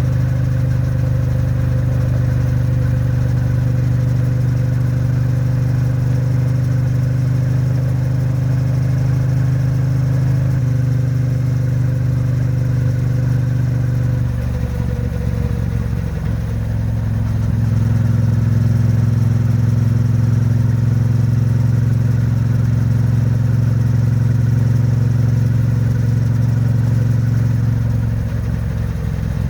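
Triumph Bonneville T100's 900 cc parallel-twin engine and exhaust running steadily at highway cruising speed, held at moderate revs while the bike is being run in. About halfway through the sound eases off for a moment, then it pulls louder again.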